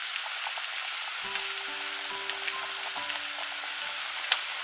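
Chicken and potatoes sizzling steadily in a frying pan over a little-over-low heat, a steady hiss with small scattered crackles.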